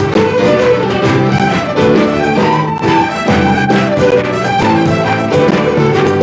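Live Scottish traditional folk band playing a brisk set of tunes, fiddle to the fore, with quick changing notes over a steady beat.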